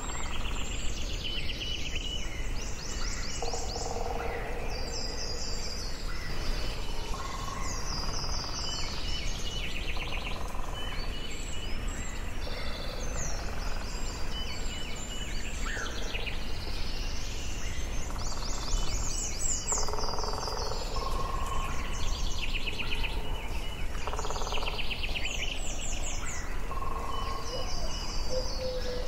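Forest ambience: several birds singing, with short overlapping trills and chirps following one another throughout and some lower notes between them, over a steady low background noise.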